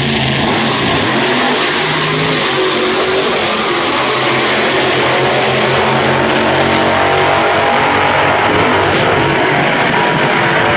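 Drag-racing car engine running loud and revving, a continuous engine sound whose pitch shifts up and down.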